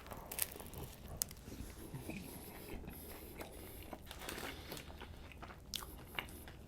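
Close-miked biting and chewing of a tuna sub sandwich with cucumbers, onion and bell pepper, with scattered small crunches and wet clicks.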